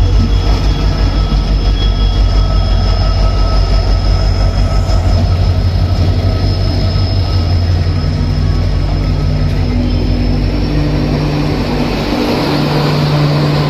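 Express train hauled by a WAP-7 electric locomotive pulling into a station platform: a heavy pulsing rumble with a steady high-pitched squeal from the wheels. The rumble eases off after about ten seconds.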